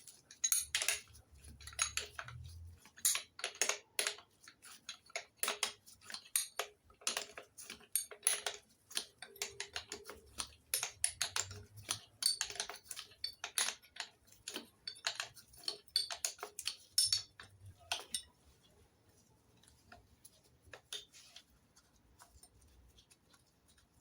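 Hand tools clinking and clicking on metal while an engine mount's fixings are undone on an MGB engine: a rapid, irregular run of sharp metallic clicks that thins out after about eighteen seconds.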